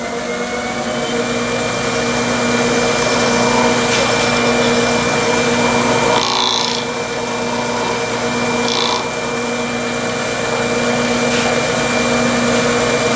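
Wood lathe running steadily, its motor humming with a high whine that rises slightly in the first second. Twice, around the middle, a brief hissing rub is heard as wax is worked onto the spinning piece.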